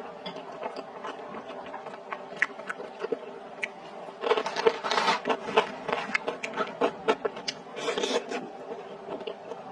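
Close-miked chewing and wet mouth sounds of someone eating skewered fish in spicy sauce: scattered smacks and clicks, with a dense flurry of smacking about halfway through and another as she bites a piece off the skewer near the end.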